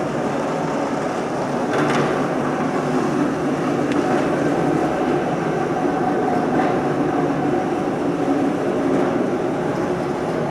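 Ungerer RM 3000/3/9 CNC industrial machine running: a steady mechanical rumble and clatter with a faint hum, and a few light knocks over it.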